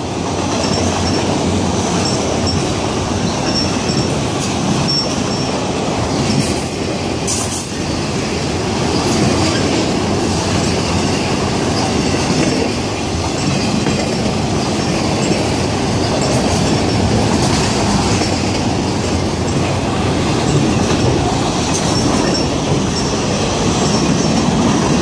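Freight train's autorack cars rolling past close by: a loud, steady rumble of steel wheels on rail, with faint high wheel squeal coming and going.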